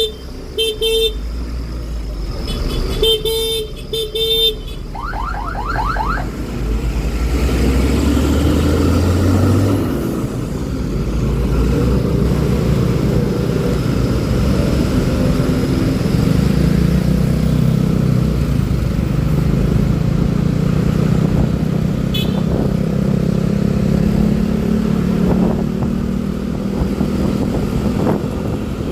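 Vehicle horns honking in short beeps during the first few seconds while a Honda Click 125i scooter's single-cylinder engine pulls away, its pitch climbing steadily for about ten seconds. After that, steady engine and road and wind noise while riding at speed, the engine note slowly rising.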